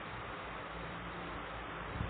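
Steady hiss-like background noise with a low rumble underneath, with no distinct events.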